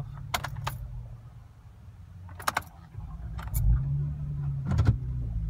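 Car engine switched off, with keys clicking and jingling in the ignition, then the engine cranked and restarted about three and a half seconds in and settled to a steady idle.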